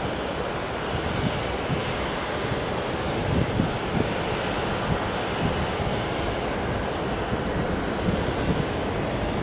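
Airliner engines making a steady, continuous rushing roar.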